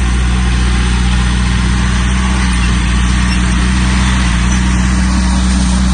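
Diesel engine of heavy earthmoving equipment running steadily at an even speed.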